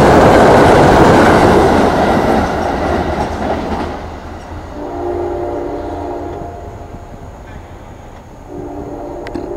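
NJ Transit commuter train passing through at speed, its rushing wheel-and-rail noise fading away over the first four seconds. Then a multi-note train horn sounds twice, once about five seconds in for over a second and again near the end.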